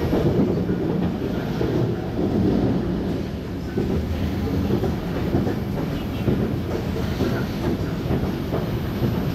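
Cabin running noise of an MTR SP1900 electric train in motion: a steady low rumble of wheels on rail, with a few faint clicks.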